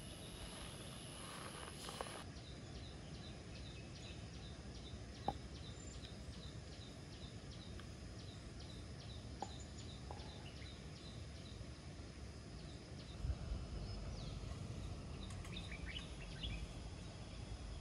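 Outdoor campsite ambience of birdsong. A short high chirp repeats about two or three times a second for several seconds, there are a couple of sharp ticks, and other bird calls come near the end, all over a steady low background hiss.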